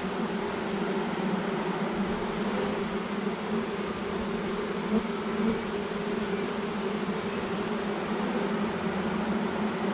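A swarm of honeybees buzzing: a steady, unbroken hum of many bees.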